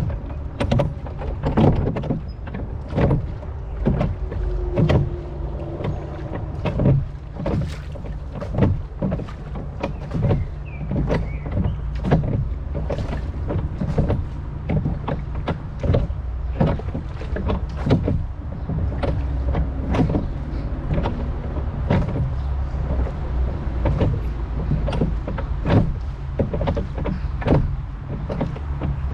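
Rowing boat on a river: oars dipping and splashing in an uneven rhythm about once a second, over a steady low rumble of wind on the microphone.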